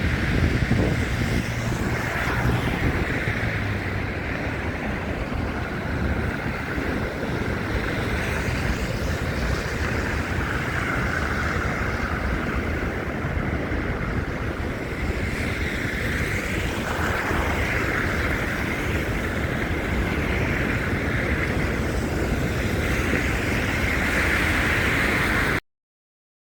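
Steady wind buffeting a phone microphone over a dull outdoor street rumble, cutting off suddenly near the end.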